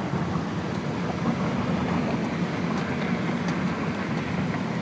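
Steady low rumble and road noise of a moving car.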